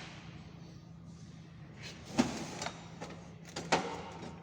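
Several short knocks and clinks, as tools or parts are handled on a workbench, over a steady low hum. The loudest knock comes a little over two seconds in.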